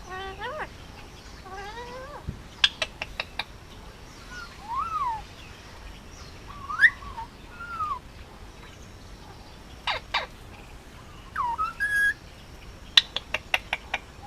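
Male Indian ringneck parakeet calling: short wavy chattering calls, several rising-and-falling whistles, and two quick runs of sharp clicks, one about three seconds in and one near the end.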